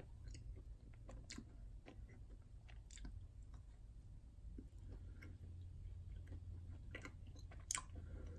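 Faint chewing of a bite of Snickers Creamy Almond Butter, a soft chocolate square with little crunch. Scattered small wet mouth clicks, with one sharper click near the end.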